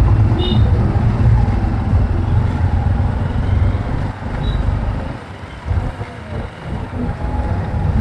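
Riding a motorcycle through city traffic: wind rumbling on the microphone over engine and road noise, easing for a couple of seconds past the middle.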